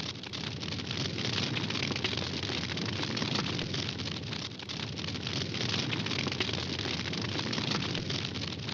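Campfire burning with a dense, steady crackle of many small pops over a low rushing noise.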